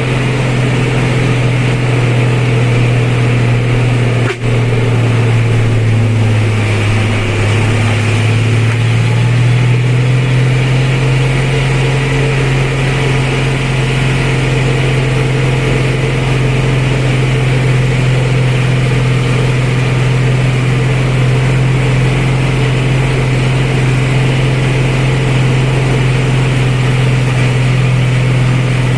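Truck engine running with a deep, steady drone; a few seconds in its pitch sags, then climbs back and holds steady. A sharp click with a brief drop in level comes about four seconds in.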